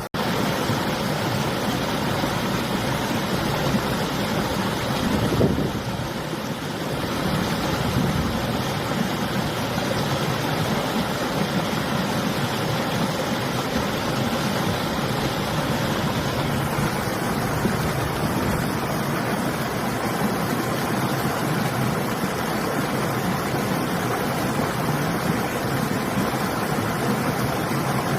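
River water rushing steadily, with winter wind blowing.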